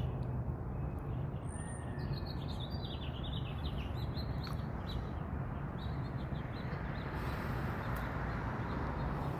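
Small birds chirping in quick runs of short calls, mostly in the first few seconds, over a steady low rumble that swells near the end.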